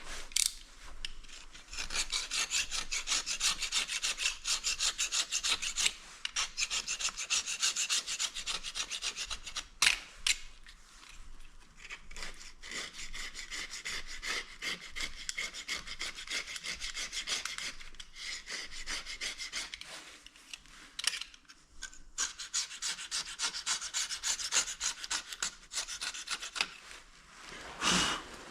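Fast, rhythmic rubbing strokes worked by hand, several a second, breaking off briefly a few times and ending with a louder stroke.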